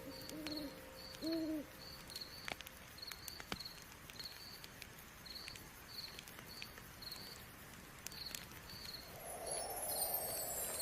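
Night ambience: an owl hoots twice near the start over crickets chirping in a steady rhythm. A soft rushing noise swells near the end.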